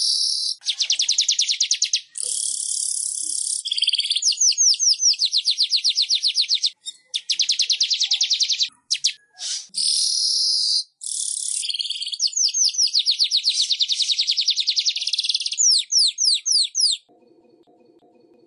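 Manyar (weaver bird) song: high, fast, rattling trills and buzzy chatter in bursts of one to two seconds with short breaks. It stops about a second and a half before the end, leaving a faint low hum.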